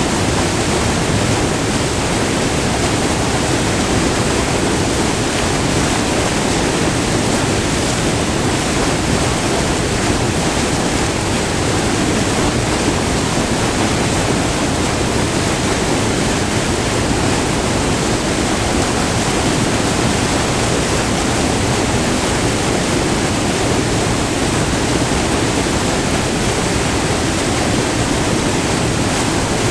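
Water of a short, multi-tiered river waterfall rushing and splashing close by, a loud, steady rush that does not change.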